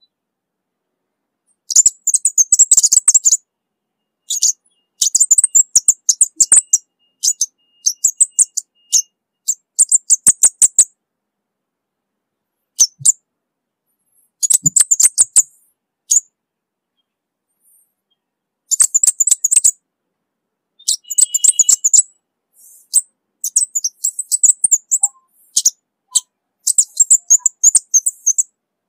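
Orange-bellied flowerpecker (cabai bunga api) calling: rapid strings of high, thin ticking chips in bursts of one to two seconds, with short silent pauses between them.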